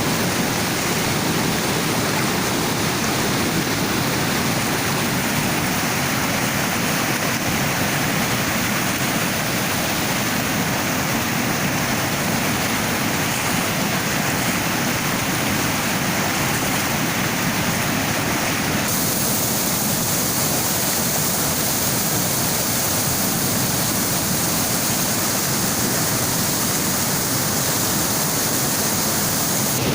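Rushing floodwater, a steady loud rush of water, changing abruptly about two-thirds of the way through.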